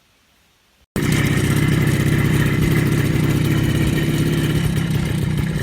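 Minsk motorcycle engine running loud and steady, cutting in abruptly about a second in after near silence.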